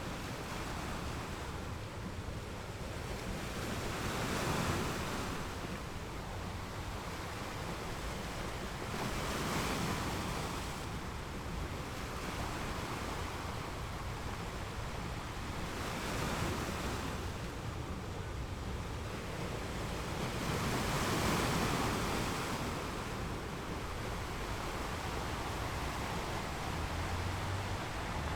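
Sea waves washing onto the shore: a steady wash of surf that swells into about four larger breaking waves a few seconds apart.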